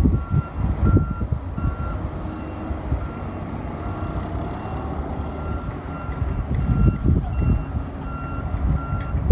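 Heavy truck's backup alarm beeping in a steady repeating pattern, a little more than once a second, over the low rumble of a diesel engine.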